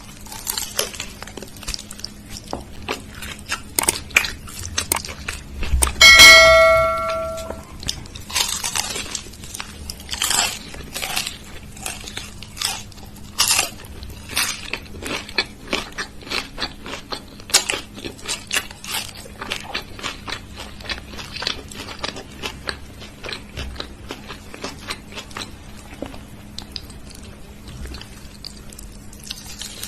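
Close-up crunching, biting and chewing of something hard and brittle, many sharp crunches in an uneven rhythm, in the style of an eating ASMR track. About six seconds in, a loud bell-like ding rings for a second or so.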